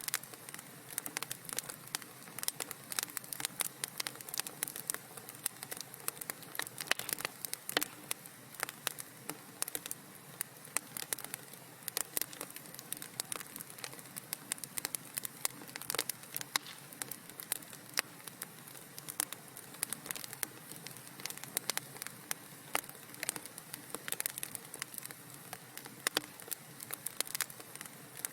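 Fire crackling in a fireplace: a constant stream of irregular sharp pops and snaps over a soft steady hiss.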